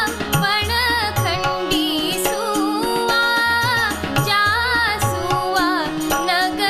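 Woman singing a Kumaoni shagun folk song in a wavering, ornamented melodic line, over drum beats and instrumental accompaniment.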